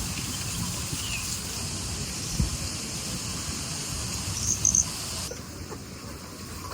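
Steady outdoor ambience: an even high hiss of the kind insects or rain make, with a quick cluster of three high chirps about four and a half seconds in. The hiss thins out abruptly a little after five seconds, as at a cut.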